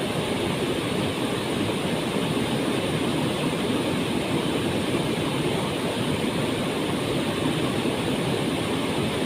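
Waterfall running: a steady, even rush of falling water with a deep, full roar.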